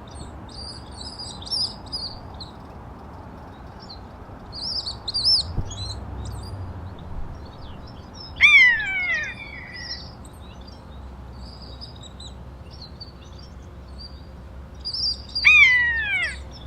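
Small birds chirping and twittering. Twice, about seven seconds apart, a louder bird call sweeps down in pitch over about a second.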